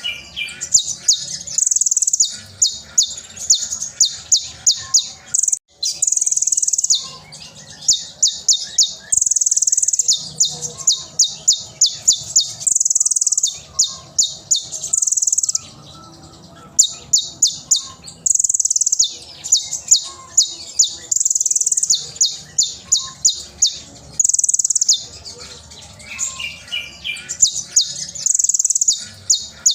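Konin (kolibri ninja) sunbird singing loudly and continuously: fast runs of sharp, high chirps several per second, broken by short held high notes and a few brief pauses.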